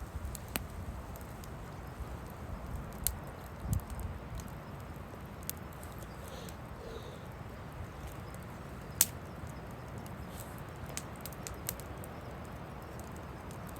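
Wood fire crackling, with scattered sharp pops, the loudest about nine seconds in, over a low steady rumble of wind.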